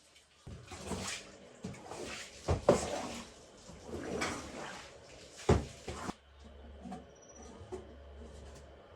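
Household handling noises: a run of knocks, clatter and rustling as things are moved about, with two sharper knocks about two and a half and five and a half seconds in.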